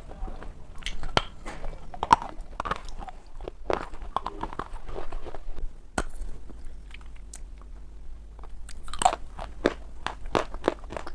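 A person biting and chewing pieces of black shale stone, making irregular sharp crunches and cracks. There are a few louder snaps along the way and a quicker run of crunches near the end.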